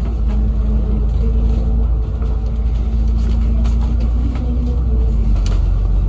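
Inside a double-decker bus on the move: a steady, loud low rumble from the engine and road, with a held engine tone that shifts slightly in pitch and light rattles from the cabin.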